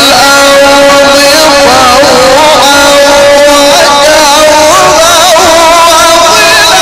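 A man's voice reciting the Quran in the melodic tajwid style, holding one long, ornamented note that wavers up and down in pitch.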